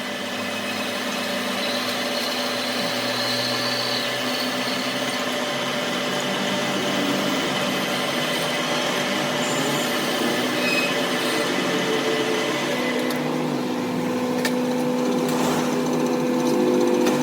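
A workshop power tool or machine running steadily, with a constant motor hum under a dense mechanical noise. A few sharp clicks come near the end.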